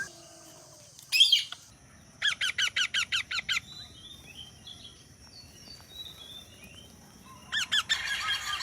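Parrot calling: one harsh call about a second in, then a fast chattering run of about ten notes a second lasting over a second. Faint chirps follow, and another burst of chatter starts near the end.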